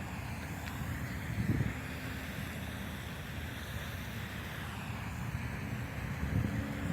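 Wind rushing over the microphone, a steady noisy rumble with no clear events.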